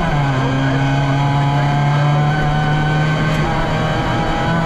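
VW Polo rally car's engine heard from inside the cabin. Its pitch drops sharply at the start as the driver shifts up a gear, then holds fairly steady under load.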